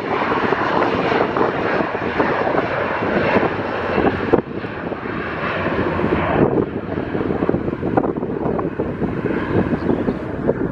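Aircraft engine noise, a loud steady rush with no clear tone, dipping suddenly about four seconds in.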